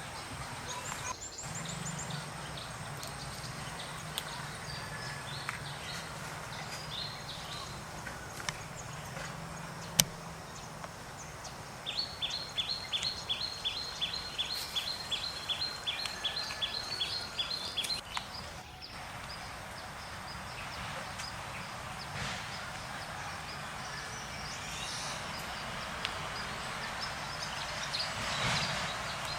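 Outdoor ambience with birds calling: scattered high chirps, and midway a run of short falling chirps repeated about three times a second for some six seconds.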